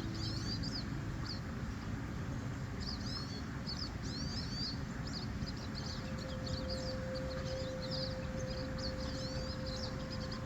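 Small birds chirping and twittering over a steady low rush of water. A faint held tone comes in about six seconds in.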